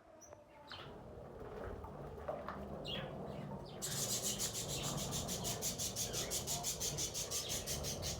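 Pet budgerigars chirping with short rising calls. About four seconds in, a loud, rapid, rhythmic rasping starts, about five pulses a second, over a low steady hum.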